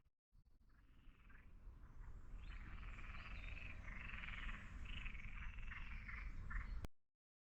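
Frogs croaking, a faint run of repeated calls over a low rumble, cutting off abruptly near the end.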